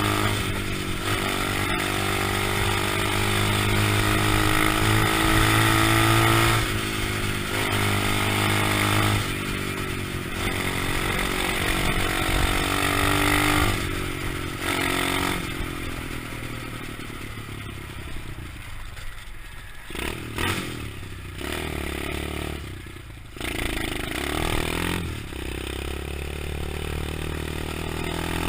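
Small single-cylinder 125cc pit bike engine running and revving, its pitch rising and falling as the throttle changes. The sound shifts abruptly several times.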